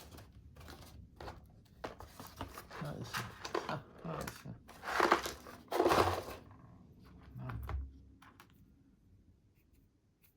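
Hands rummaging among small parts and their packaging on a workbench: a run of rustling and crinkling, with two louder rustles about five and six seconds in, dying away near the end.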